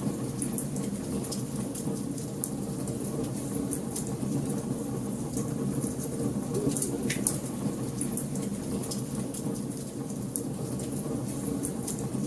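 Wood fire burning in a fireplace: a steady low rumble of flames with frequent small crackles and pops, one sharper pop about seven seconds in.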